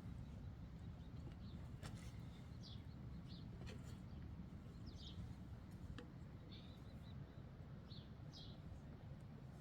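Short, high chirps from small birds, one every second or so, over a faint low rumble, with a few sharp clicks.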